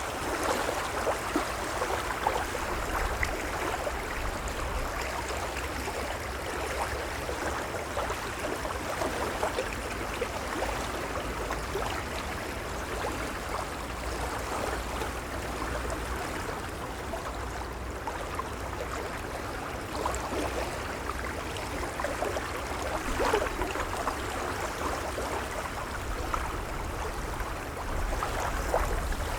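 Gentle waves lapping and gurgling at the water's edge, a steady wash of small splashes with a low rumble underneath.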